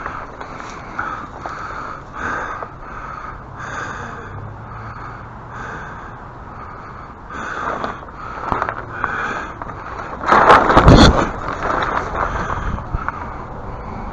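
Crinkling and rustling of a large folded sheet being unfolded and handled, in a run of short scrapes, with a louder rustle and thump about ten and a half seconds in.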